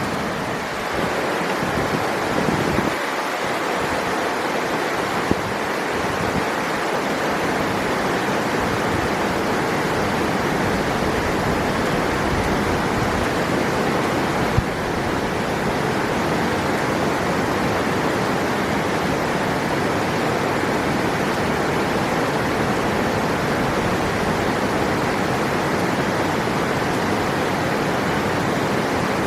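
River water rushing, a steady, even rush without a break.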